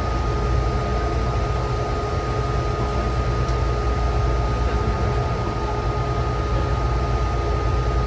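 Taichung MRT metro train running, heard from inside the car: a steady low rumble with an even hiss and a steady high whine over it.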